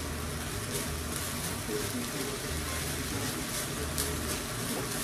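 Stir-fry of chicken, zucchini, onion and ramen noodles sizzling steadily in a nonstick skillet, with faint spattering crackles.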